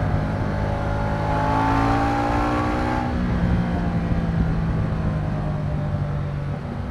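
Moto Guzzi V100 Mandello's transverse V-twin engine under way. It pulls up through the revs, drops sharply about three seconds in as it shifts up, then runs on more steadily and eases off slightly toward the end.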